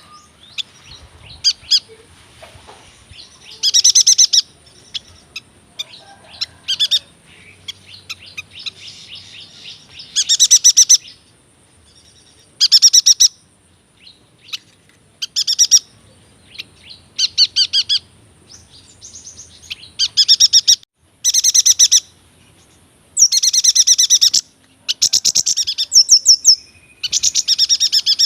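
Yuhina singing: a dozen or so bursts of fast, high trilling notes, each lasting up to about a second and a half, separated by short pauses.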